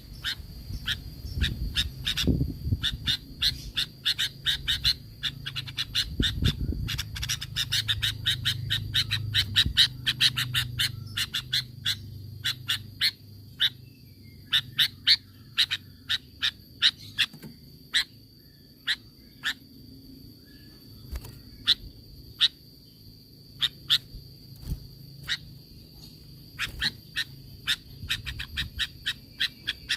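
Sooty-headed bulbul calling in a long series of short, sharp chips. They come fast and close together for the first half, most quickly a little past the middle, then more sparsely. A steady high tone runs beneath.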